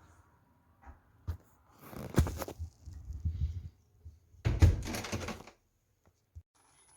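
Handling noises: a click, then two loud spells of clattering and rustling, about two seconds in and again a little after four seconds in.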